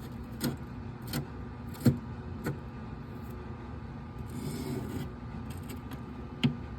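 A few separate sharp clicks and knocks from handling the furnace's inducer and plastic collector box parts, the loudest about two seconds in, with a brief scraping rustle about four and a half seconds in.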